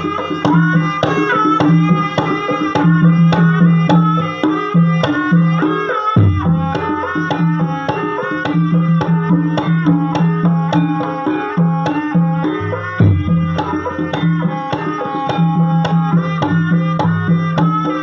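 Javanese gamelan music for an ebeg horse dance: struck pitched metal or bamboo instruments playing a continuous melody, with frequent sharp hand-drum strokes.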